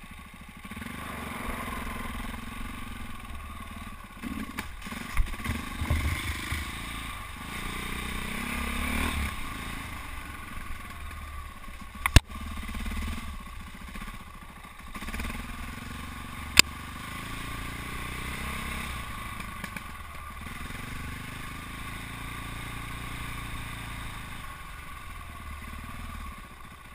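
KTM enduro motorcycle's single-cylinder four-stroke engine, ridden off-road, its revs rising and falling with the throttle. Two sharp knocks stand out, about halfway through and a few seconds later.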